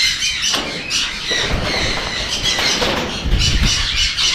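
Parrots screeching and squawking continuously, shrill and high-pitched, with low bumps and rustling about one and a half and three and a half seconds in.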